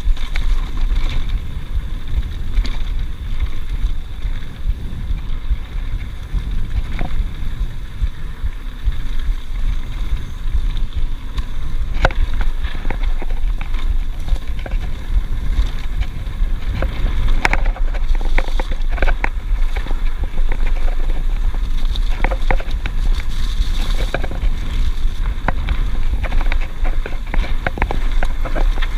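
Mountain bike rolling over a rough dirt trail: wind buffeting the on-bike camera's microphone as a deep steady rumble, with frequent rattles and clacks from the bike and chain over bumps.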